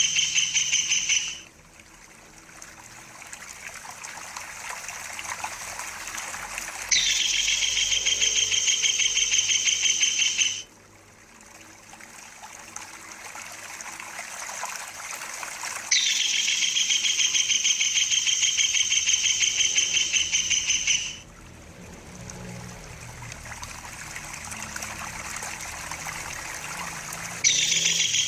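Tengkek udang kingfisher giving its rolling call: a loud, rapid high-pitched trill lasting four to five seconds, which starts and stops abruptly and recurs about every nine seconds. Between the trills, trickling water sounds and slowly grows louder.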